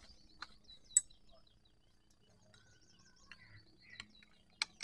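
Small birds singing high, fast wavering trills, broken by several sharp clicks, the loudest about a second in and two close together near the end.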